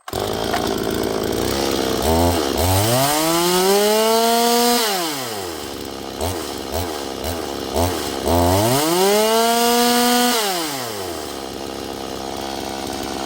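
Holzfforma G260 two-stroke chainsaw, a Stihl MS 260 clone, running: it idles, is revved to full throttle and held for a couple of seconds, drops back to idle, is blipped a few times, then revved and held once more before settling back to idle.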